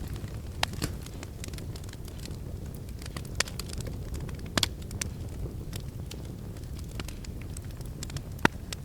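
Wood fire in a fireplace crackling, with sharp snaps and pops at irregular moments (the strongest about 3.5, 4.5 and 8.5 seconds in) over a steady low rumble of the flames.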